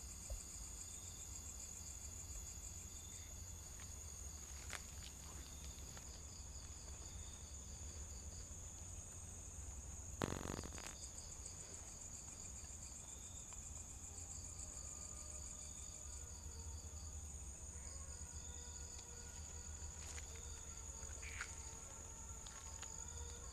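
Night insects calling: crickets and other insects, one holding a steady high trill while others chirp in quick repeated pulses. A short thump about ten seconds in is the loudest sound.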